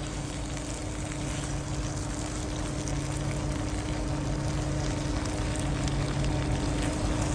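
Potatoes, onions and green pepper frying in oil in a skillet, a steady sizzle, with a steady low hum underneath.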